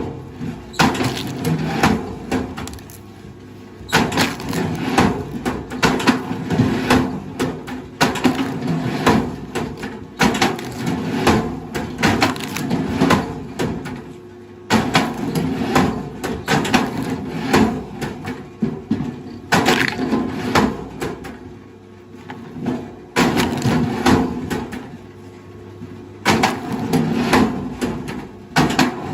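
Wood cracking and splintering in repeated sharp bursts, some in quick clusters and some single, over a low steady hum.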